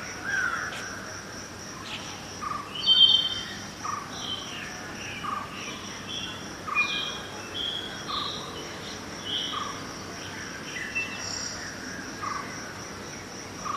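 Birds chirping and calling, one repeating a short call about every second and a half, over a steady high-pitched insect trill and faint background city hum.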